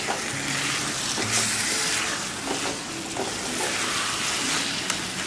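Potatoes and cluster beans with curd sizzling steadily in a steel kadai, stirred with a wooden spatula.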